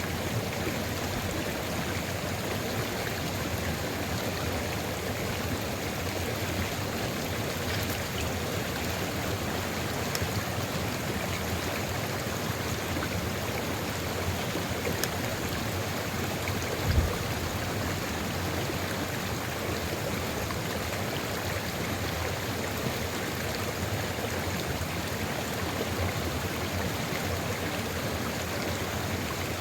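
Sulfur river at Ijen crater flowing steadily, an even rush of running water. A brief low thump about halfway through.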